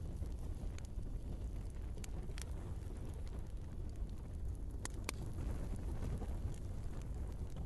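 Wood fire burning in a fireplace: a steady low rumble of flames with a handful of sharp crackles and pops from the burning logs, two of the clearest about five seconds in.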